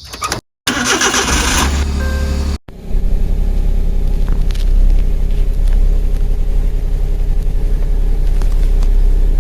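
Car engine starting, then running with a steady low rumble.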